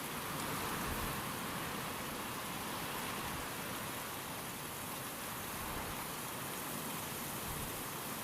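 Steady rain falling with wind, a dense even hiss that swells slightly about a second in.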